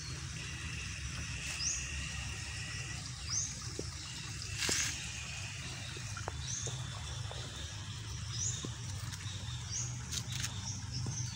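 Outdoor rural ambience: a bird repeats a short, high, rising chirp every second or two over a constant low hum. A higher steady buzzing call sounds in the first few seconds, and there are a few brief knocks about halfway and near the end.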